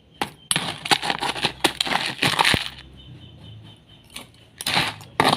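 Ice cubes dropped into a small glass, clattering and clinking against it in a quick run of knocks, then a pause, then a few more near the end.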